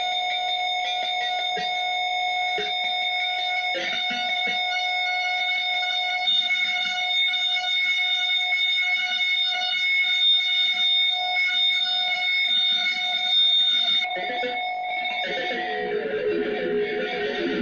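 Fuzz and delay pedal chain self-oscillating into a steady high-pitched multi-tone drone with crackles and stutters. About fifteen seconds in, electric guitar notes come in through the effects.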